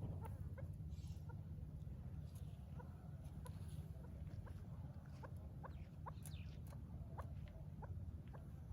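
Farm-raised game birds (quail and chukar partridges) chirping: many short, rising peeps, a few each second, over a steady low hum.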